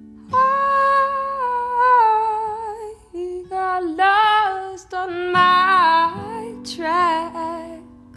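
A woman sings a wordless melody of long held notes with vibrato over ringing acoustic guitar chords.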